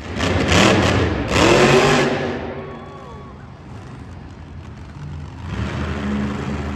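Monster truck engine revving hard in two loud bursts within the first two seconds, easing off, then building again near the end.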